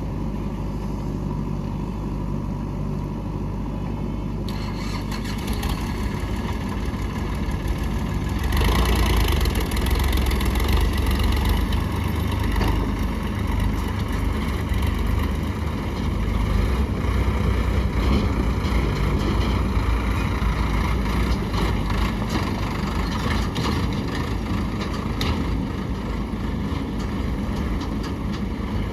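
Heavy diesel engine of a backhoe loader or tractor running, working harder about five seconds in and louder again from about eight and a half seconds.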